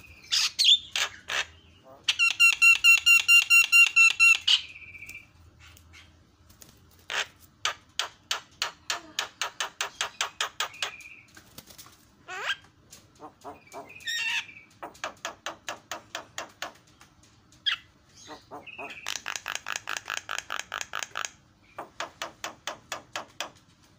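Black-winged myna (jalak kebo) singing. It gives a loud buzzy phrase of rapid pulsed notes about two seconds in, then several runs of harsh repeated notes at about four a second, with short whistles between them.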